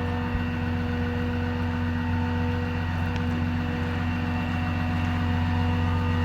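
Dodge Ram 5500's 6.7 Cummins inline-six turbo-diesel idling steadily, a constant hum.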